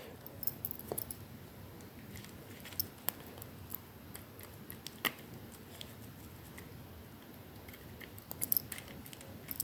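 Scattered small clicks and scrapes of a fine screwdriver and the small plastic parts of a model locomotive tender being handled as its plate screws are worked loose, with a short run of clicks near the end.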